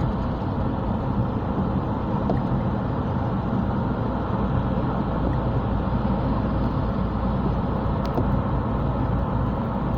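A moving car's road and engine noise: a steady low rumble with no distinct events.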